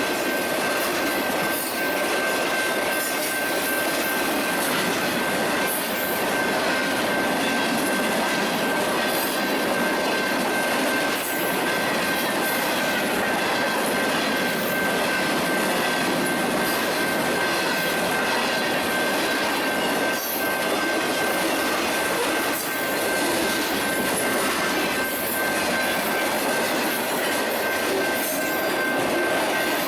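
Union Pacific freight train cars rolling past, a steady rush of wheels on rail with faint clicks and a thin, steady high-pitched wheel squeal.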